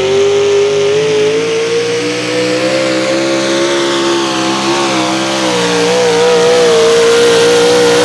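Engine of a 4x4 pulling truck held at high revs under load while pulling the sled. Its pitch climbs slowly, wavers about five seconds in, then holds high.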